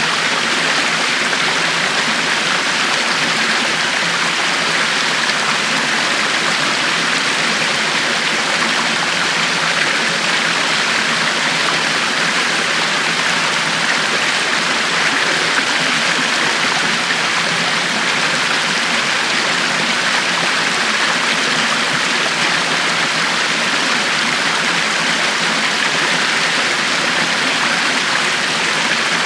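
A river flowing steadily over rocks, a constant rushing of water with no breaks.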